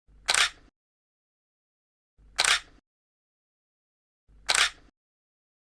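Camera shutter sound effect, played three times about two seconds apart: each a single short, crisp shutter click.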